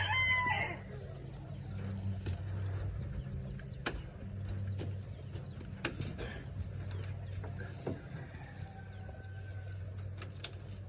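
A rooster's crow trails off in the first second, followed by a steady low hum with scattered sharp clicks and knocks. Near the end come faint, thin bird calls.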